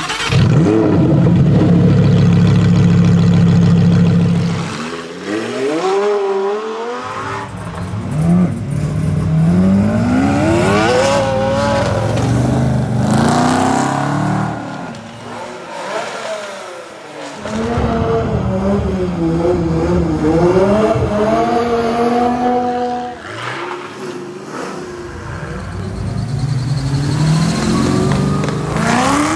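Performance car engines revving hard and accelerating away one after another, including a classic Ford Mustang and an AC Cobra, the engine note sweeping up in pitch with each pull. A loud steady drone fills the first four seconds or so.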